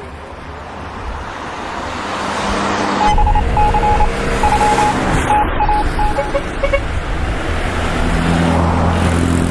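Road traffic and a motor vehicle's engine running, growing louder about two seconds in, with a run of short high beeps between about three and seven seconds in.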